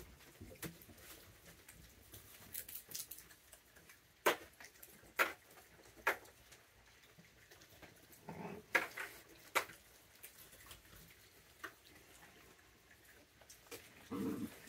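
Raccoons handling and cracking peanuts and shuffling about, heard as scattered sharp clicks and knocks at irregular intervals, a few of them louder than the rest.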